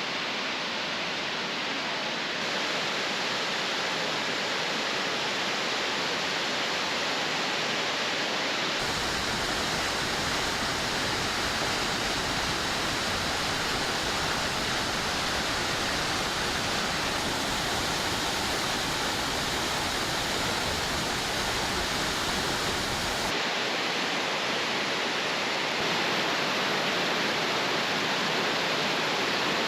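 Waterfall rushing steadily. About nine seconds in the rush takes on a deeper low rumble, which drops away again after about another fourteen seconds.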